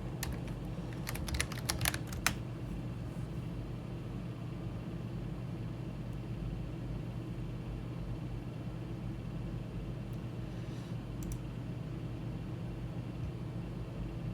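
Computer keyboard typing: a quick run of keystrokes in the first two seconds or so, then a couple more clicks about ten seconds in, over a steady low hum.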